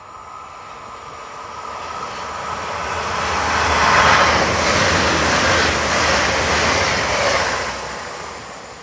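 Hitachi Intercity Express Train passing through the station without stopping: a rising rush of wheels and rails on the approach, loudest from about halfway as the carriages go by, then fading as it draws away.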